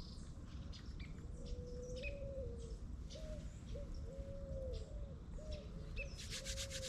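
Wild birds calling: a run of low, smooth whistled notes, one longer note followed by shorter ones repeated at under a second apart, with higher chirps over the top. A brief rapid rattling trill comes in near the end.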